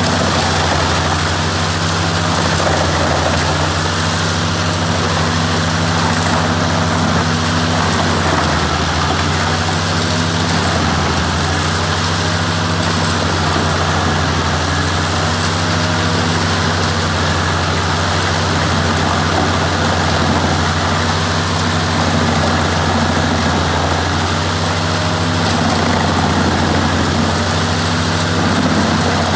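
Ford 8830 tractor's diesel engine running steadily under power, with the PTO-driven wood chipper running behind it. The engine note sags briefly several times.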